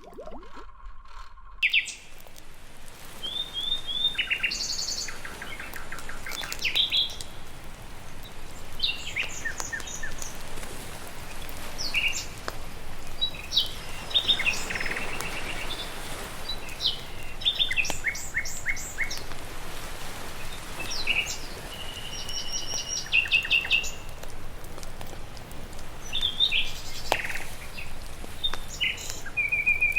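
Many songbirds chirping and trilling in short repeated phrases over a steady rushing background noise, starting about two seconds in.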